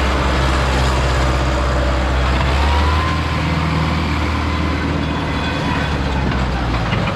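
Tractor engine running steadily under way, its low note shifting about three seconds in.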